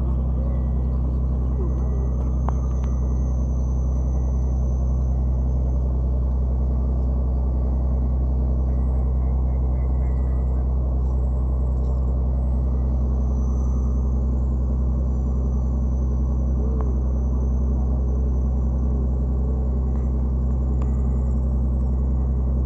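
Wooden boat's inboard engine running at a steady speed: a loud, deep, unchanging drone.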